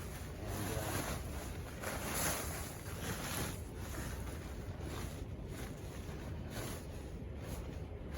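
Snow being brushed and swept off a tarp cover in repeated swishing strokes, with wind rumbling on the microphone underneath.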